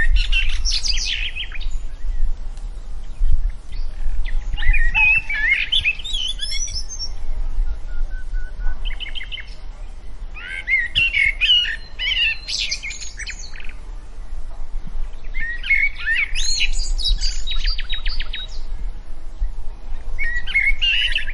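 Birds chirping and warbling in short bouts of a second or two, a new bout every few seconds, over a steady low rumble.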